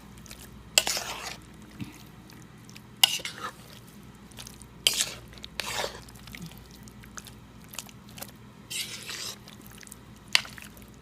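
A spoon stirring and folding dressed potato cubes in a bowl: irregular wet, squishy scrapes, one every second or two.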